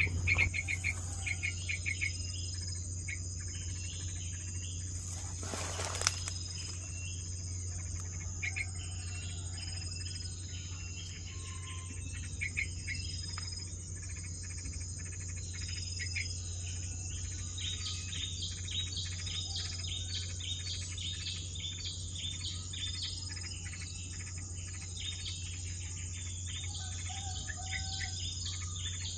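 Bulbul giving rapid, repeated sharp chirps, agitated calls of a parent whose nest is under attack by a squirrel, over a steady high insect buzz and a low hum. A single sharp knock sounds about six seconds in.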